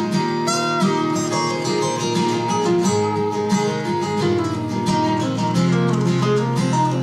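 Instrumental guitar break in a country song: a lead guitar plays a solo line with bent notes over strummed acoustic rhythm guitar.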